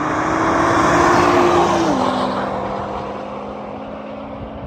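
Racing car engine running at high revs, loud at first, its steady note stepping down in pitch about two seconds in as the sound eases off.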